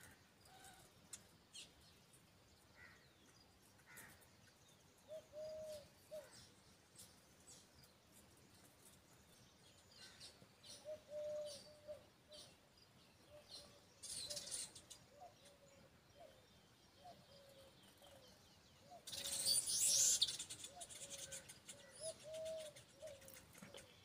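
Birds calling: short low notes repeated again and again, with scattered high chirps and a loud burst of high chattering about three-quarters of the way through.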